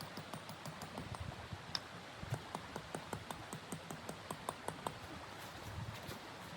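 Firewood crackling in a wood stove: irregular sharp pops and snaps, several a second, over a steady hiss.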